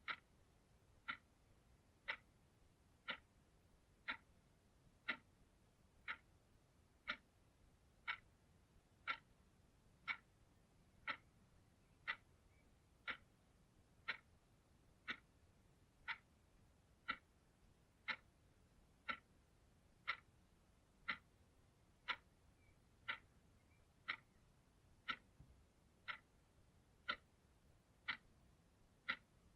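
Clock ticking steadily, one sharp tick a second, against near-silent room tone.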